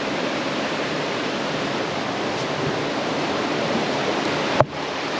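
Neretva river water rushing steadily around a raft, an even hiss of moving white water, with a single short knock near the end.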